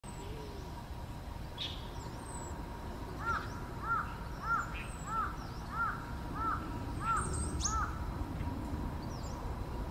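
Birds calling among trees: one bird gives a run of eight short, arched notes about every 0.6 seconds, starting about three seconds in, over thin high chirps from other birds.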